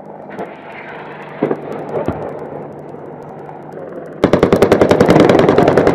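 Steady low engine drone with a couple of single sharp cracks, then about four seconds in a long burst of rapid automatic gunfire, about ten shots a second and much louder than the rest.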